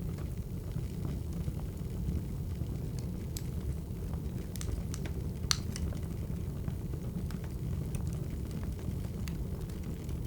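Wood fire crackling: a steady low rumble with scattered sharp pops, one louder pop about five and a half seconds in.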